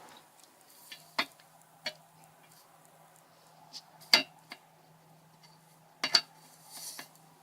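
A handful of sharp clicks or clinks, spread out, with two close together about six seconds in, over a faint steady low hum.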